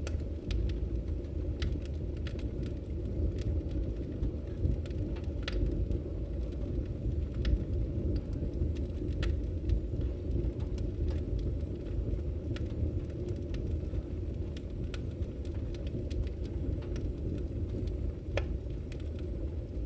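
Wood fire in a fireplace burning with a steady low rumble, crackling with scattered sharp, irregular pops.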